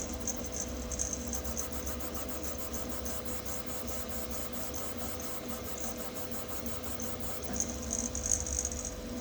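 Sapphire Plus 3D printer running a print: a steady hum of fans and stepper motors with one held tone, a light rattle and a fast even ticking.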